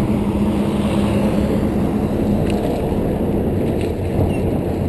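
Steady wind rush and road noise from a mountain bike riding along a road, with a low steady hum beneath.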